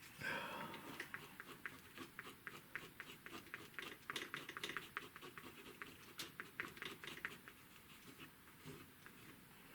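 Quick, faint scratchy strokes against watercolour paper, several a second and irregular, as paint is scraped out to make grass marks.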